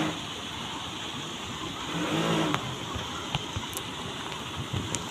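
Steady hiss of heavy rain, with a short pitched sound about two seconds in and a few sharp clicks near the end.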